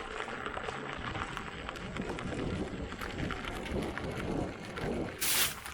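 Electric unicycle tyre rolling over a loose, rocky trail surface, with an uneven crunching and many small clicks from the stones. A brief loud rush of noise about five seconds in.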